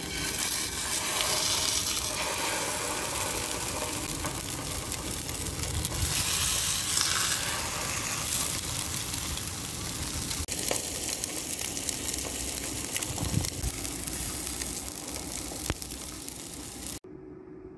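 Salmon fillets sizzling as they fry in hot oil in a cast iron skillet; a steady hiss that starts as the first fillet is laid into the pan and cuts off suddenly near the end.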